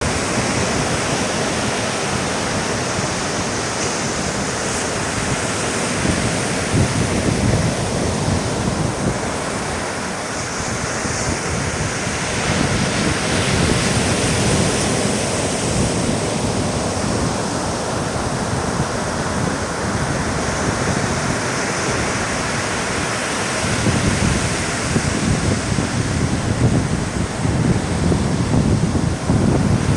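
Sea surf washing onto a beach with wind buffeting the microphone, the gusts heavier near the end.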